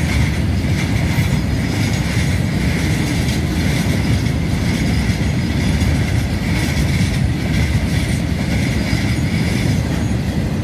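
Freight train of open wagons and steel-coil flat wagons rolling past: a steady low rumble and clatter of wheels on rail, with a high wheel squeal running through it.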